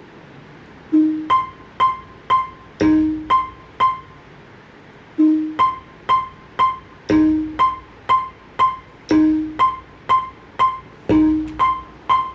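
Piano-like keyboard notes played in a repeating figure that starts about a second in: one low note followed by three higher ones, about every two seconds.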